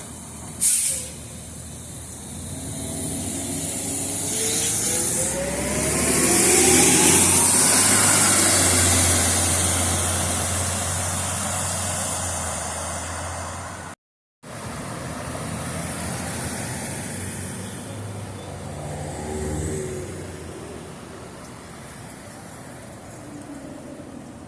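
A transit vehicle pulling away: a short burst of air hiss, then a motor whine rising steadily in pitch as it speeds up and passes loudly. After a brief cut, quieter steady vehicle running noise follows.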